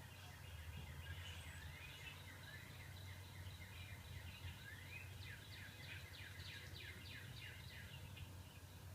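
Small birds chirping and twittering, played back from a bird video through a device's speaker. Quick chirps run on throughout and come thick and fast in the second half, over a faint steady low hum.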